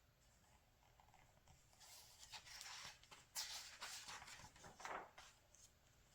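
Pages of a glossy magazine being turned by hand: a few soft papery rustles and slides between about two and five seconds in.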